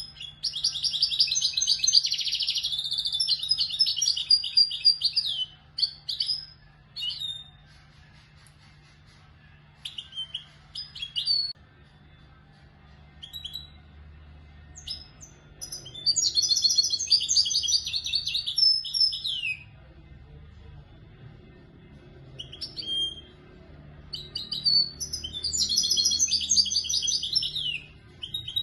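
A young European goldfinch singing in the Moroccan Marrakchi style. It gives three long, fast twittering song phrases, one at the start, one around the middle and one near the end, with short single chirps in between.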